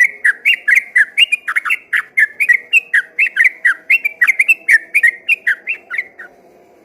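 Yellow-vented bulbul (trucukan) singing its long rapid song: a fast string of loud, liquid whistled notes, about four or five a second, that stops shortly before the end.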